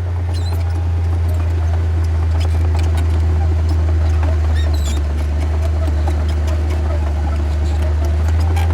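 Heavy diesel engine of earthmoving machinery running steadily with a deep, even drone, with scattered light clicks and knocks over it.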